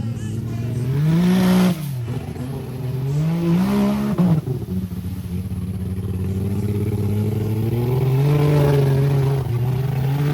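Off-road vehicle engine revving: it climbs and drops back twice in quick succession, then holds a steady drone and rises again near the end.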